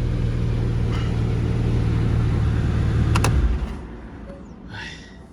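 Porsche 718 GT4's 4.0-litre flat-six engine and exhaust held at raised revs with a steady tone, then letting off and falling away about three and a half seconds in, with a brief sharp click just before the drop.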